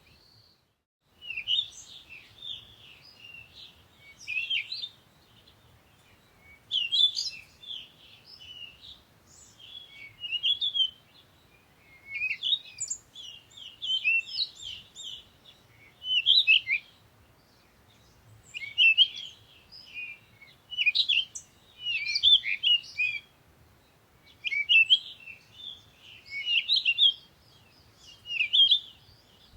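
Songbirds chirping and singing in short, rapid, high-pitched phrases every second or two, starting about a second in.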